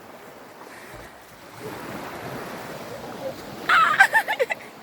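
Sea waves washing on a beach, with wind buffeting the microphone. Near the end come a few loud, high-pitched shouts or shrieks from voices.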